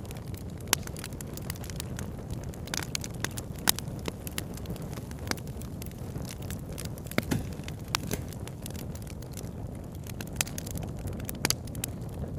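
Campfire crackling, with irregular sharp snaps and pops of burning wood, several louder ones, over a steady low rushing noise.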